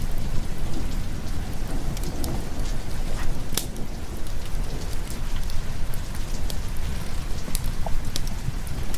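Steady rain with a continuous deep rumble of thunder underneath, dotted with scattered sharp ticks.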